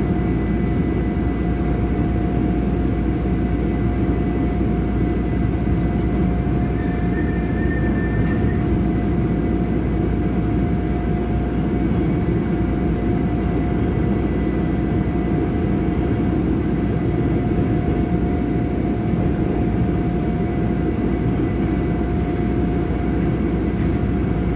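Chicago 'L' elevated train running steadily, heard from inside the car: a constant rumble of the car rolling on the track with a thin steady whine running through it.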